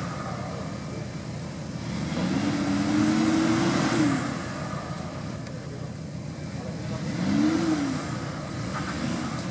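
Off-road vehicle engine revving in bursts under load: one long rev held from about two to four seconds in, and a shorter rev about seven and a half seconds in, running at lower revs in between.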